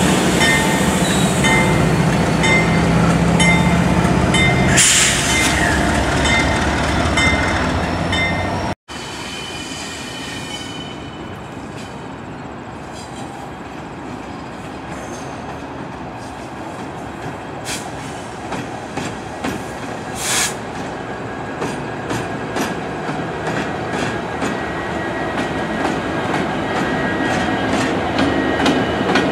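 Union Pacific diesel-electric locomotives passing close by with their engines running, a loud steady drone, and a brief high screech about five seconds in. After a sudden cut, another UP diesel-led freight creeps through curved yard trackwork, quieter at first: wheels clicking over rail joints, a couple of short wheel-flange squeals, and the engine sound growing as the locomotives come alongside near the end.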